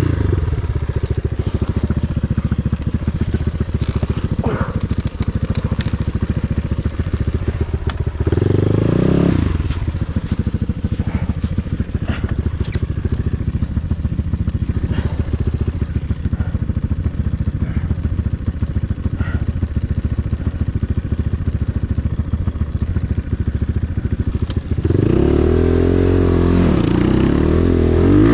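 Enduro motorcycle engine running under way, with a rapid steady firing rhythm, revving up about eight seconds in and again with revs rising and falling near the end.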